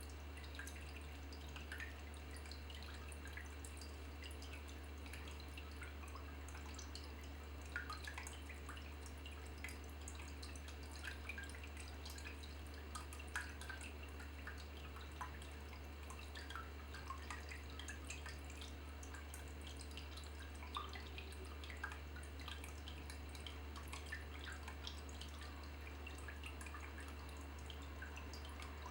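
Water dripping in small, irregular drops, over a steady low hum.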